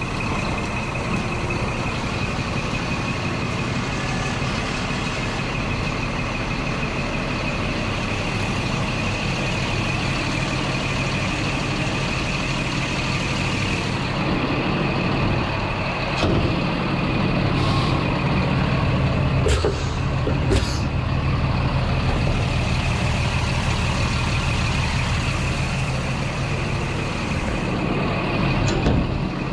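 Old Scania truck's diesel engine idling steadily, with a steady high whine alongside. A few short sharp hisses or clicks come between about sixteen and twenty-one seconds in.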